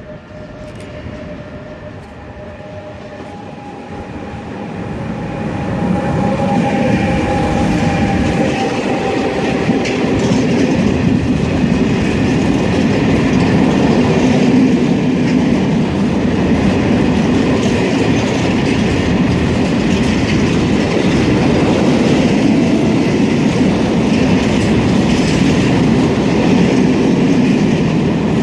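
Freight train hauled by a Renfe Class 253 electric locomotive passing through, growing louder over the first six seconds and then holding a steady, loud rumble as the wagons roll by.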